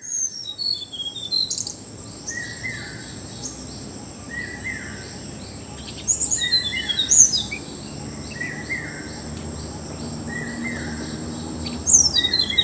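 Several birds calling at once. One repeats a short call about every one and a half to two seconds, while others give high chirps and quick falling trills. A steady high insect drone runs underneath.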